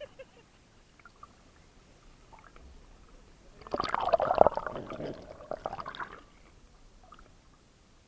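Water splashing and gurgling in a dense burst lasting about two and a half seconds, starting a little past halfway; the rest is faint.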